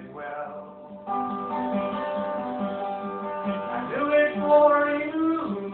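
Acoustic guitar strummed in a live solo folk performance, an instrumental passage between sung lines. It starts soft and picks up about a second in, getting loudest around four seconds in.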